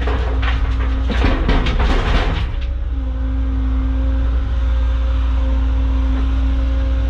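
Caterpillar excavator's diesel engine and hydraulics running steadily, with a clatter of material in the bucket for the first two and a half seconds. After that a steady hum carries on over the low engine rumble.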